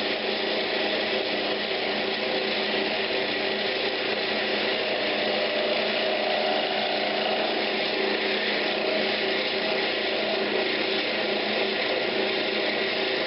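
Wood lathe running steadily while a turning tool takes a cut on a pine cabinet knob to clean up tear-out: an even motor hum with a hiss of wood being cut, with no breaks.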